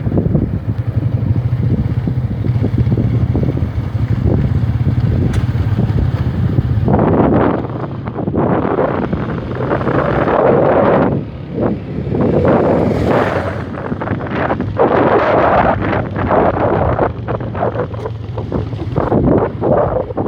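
Motorcycle engine running steadily on the move, with wind buffeting the microphone; the wind noise turns loud and gusty about seven seconds in.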